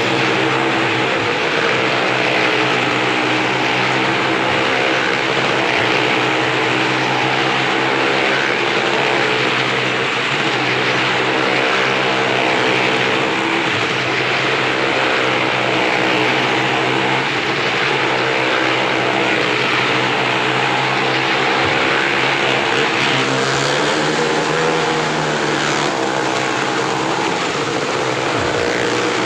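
Engines of several small cars running hard as they circle the vertical wall of a well-of-death pit: a loud, steady drone of overlapping engine notes that waver slightly up and down.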